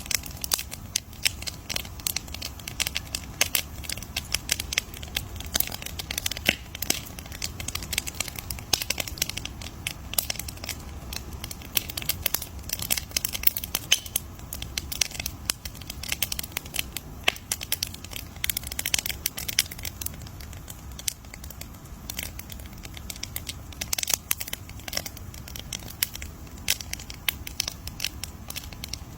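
Campfire crackling: dense, irregular snaps and pops of burning wood over a low steady rumble.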